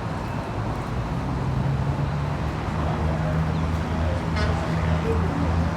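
An engine running steadily with a low hum over a noisy background; the hum steps up a little in pitch about a second and a half in.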